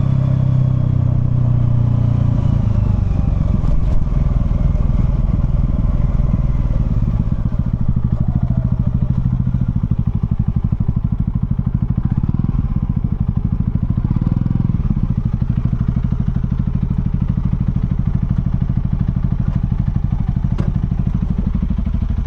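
Honda CL250 motorcycle engine coming off the throttle, its revs dropping over the first few seconds, then settling into a steady, evenly pulsing idle.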